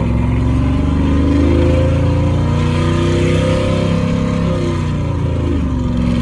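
Cammed 5.3-litre V8 (222/232 duration cam, 112 LSA) running through a Carven R-series muffler as the truck drives. Its exhaust note rises and falls with the throttle, dropping low about five and a half seconds in and then climbing again.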